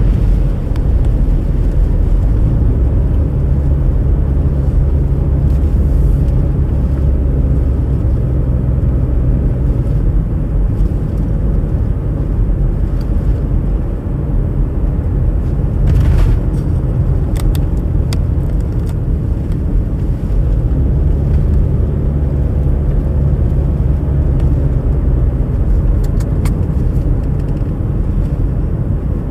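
Steady low rumble of a car driving: engine hum and road noise, with a few faint clicks in the middle and near the end.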